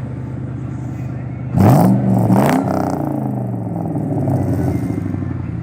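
Nissan VH41DE 4.1-litre V8 idling, then blipped twice in quick succession about a second and a half in. The revs climb sharply and fall back to a steady idle.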